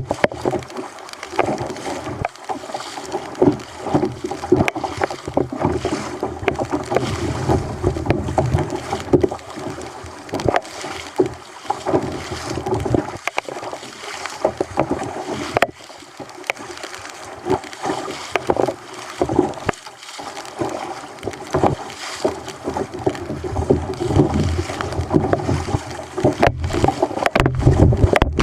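Rough sea water splashing and slapping irregularly against a fishing kayak's hull.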